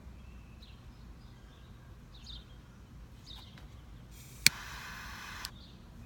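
Faint bird chirps come and go every second or so. About four seconds in, a sharp click is followed by a hiss lasting about a second that ends with another click.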